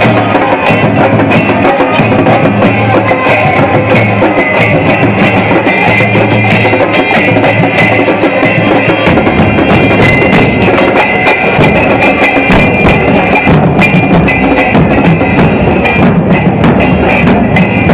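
Football supporters' drum band playing continuous rhythmic percussion with many sharp strikes, among a chanting crowd of fans; deeper bass drums join in about halfway through.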